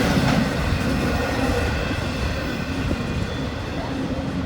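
Freight train cars rolling past on the rails, a steady rumble that slowly fades as the train moves away.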